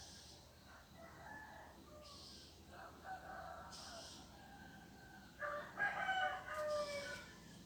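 A rooster crowing. One loud crow comes about five and a half seconds in and lasts under two seconds, after fainter calls earlier on.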